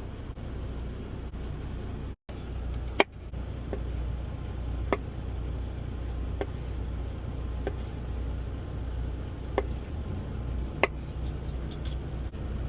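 Steady low rumble of the semi truck's idling engine, heard inside the cab. Six short sharp taps or clicks come at irregular intervals of a second or two.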